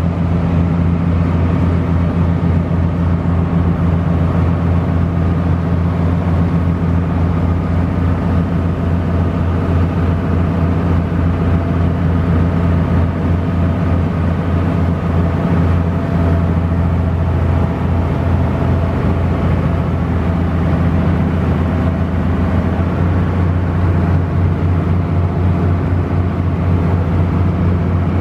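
Small harbour ferry's diesel engine running steadily under way: a loud, even low drone with a hum, little changing over the crossing.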